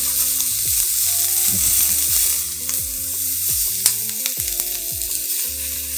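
Green bell pepper strips sizzling in a hot, heavy skillet, the sizzle easing off in the second half as the pan is lifted off the heat and tipped over a platter. One sharp click sounds about four seconds in.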